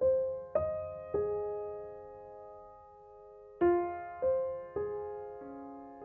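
Background piano music: slow, sparse notes struck one at a time and left to ring out.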